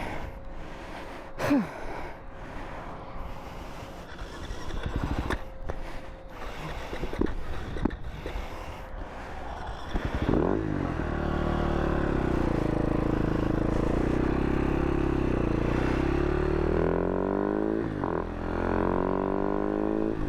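Scraping and clattering with gusty wind noise. About halfway through, the Husaberg FS570's single-cylinder four-stroke engine comes in and runs steadily, its pitch rising and falling near the end.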